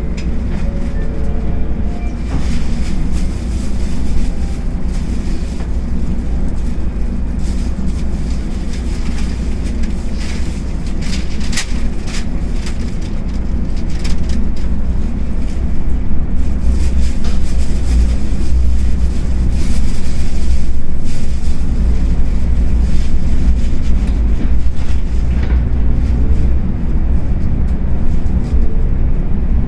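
Tokaido Shinkansen running noise heard inside the passenger car as the train picks up speed after departure: a steady low rumble with scattered short clicks. It grows louder about halfway through.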